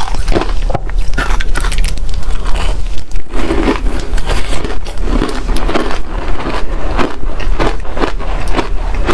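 Freezer frost being chewed: a loud, continuous run of crisp, irregular crunches and crackles.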